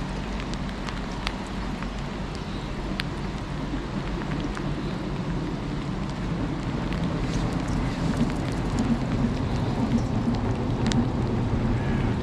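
Steady rain and wind on the microphone, with scattered single raindrop taps close by. A low rumble swells in the second half.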